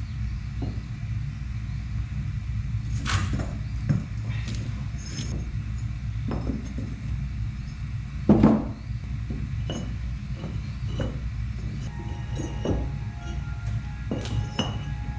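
Bricks clinking and knocking against one another and against a trowel as they are laid, in a dozen or so irregular strikes with the loudest about eight seconds in, over a steady low hum.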